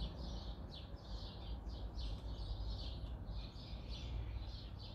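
Birds chirping faintly in the background, short high chirps repeating about three times a second over a low steady hum.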